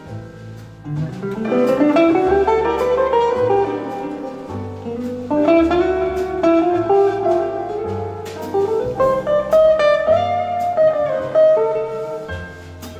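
Small jazz ensemble playing a ballad: an electric jazz guitar carries the melody with rising runs and held notes over walking double bass, piano and brushed cymbals.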